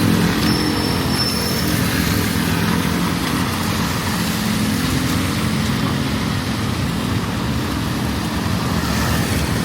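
Street traffic: the engine hum of passing motor vehicles, strongest near the start and again midway, over a steady hiss of rain and wet road noise.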